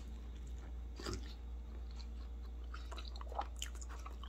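A person chewing a mouthful of steak burrito close to the microphone: soft, scattered mouth clicks and wet smacks, the clearest about a second in.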